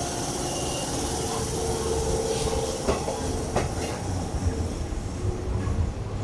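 Hanshin Railway electric commuter train moving along the platform: a steady running noise with a low rumble, and two sharp clicks of wheels over the rail a little under a second apart near the middle.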